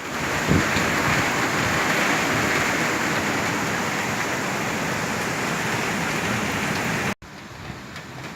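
Heavy rain pouring steadily. About seven seconds in it cuts off abruptly, leaving a much quieter background.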